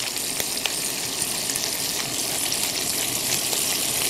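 Diced pancetta sizzling steadily in olive oil in a skillet as its fat renders, with a few small pops.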